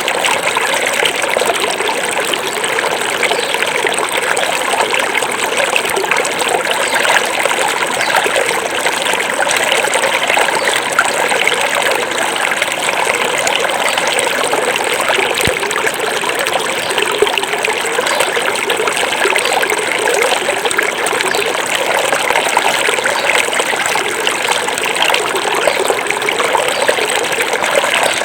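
Small forest river flowing steadily over rocks, a continuous babbling and trickling rush of water.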